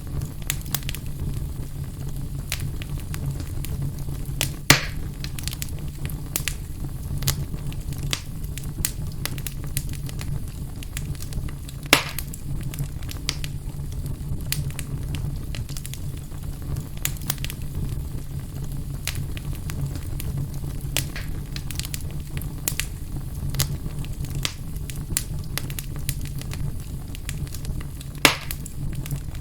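Wood fire burning in a fireplace: a steady low rumble with frequent small crackles and three louder pops.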